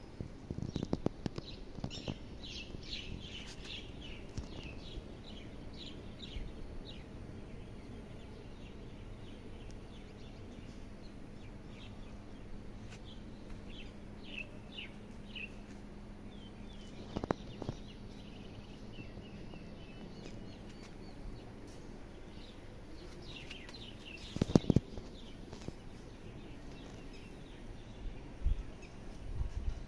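Small birds chirping in quick runs of short, high calls that come in three bursts, over a faint steady low hum. A few short thumps stand out, the loudest about three-quarters of the way through.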